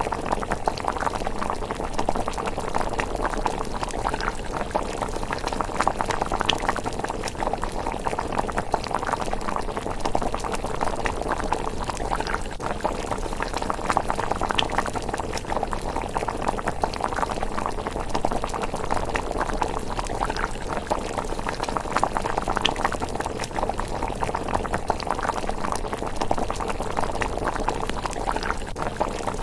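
A pot of rice porridge simmering steadily, thick bubbling and popping that does not let up, with a wood fire beneath giving a sharp crackle now and then.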